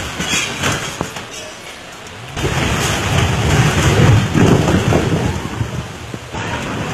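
Heavy rain pouring down, with scattered sharp ticks of drops. About two seconds in, a loud, low rumbling roar sets in suddenly and runs on.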